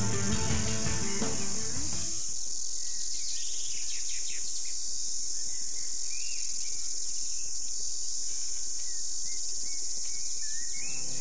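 Guitar music stops about two seconds in, leaving a steady high insect drone with scattered bird chirps. The music comes back near the end.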